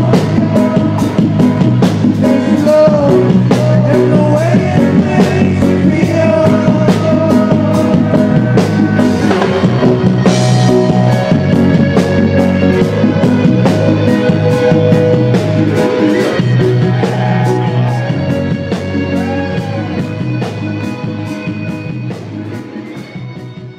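Live reggae band playing: a steady drum beat under bass, guitar and singing, the music fading out over the last few seconds.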